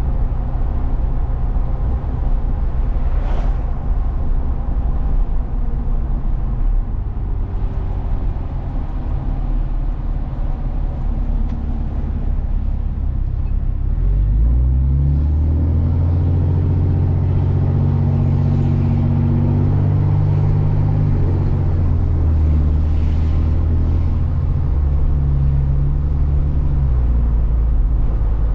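Truck driving, with engine and road noise as a continuous low rumble. About halfway through, a louder, steady engine drone comes in and holds, shifting pitch a few times.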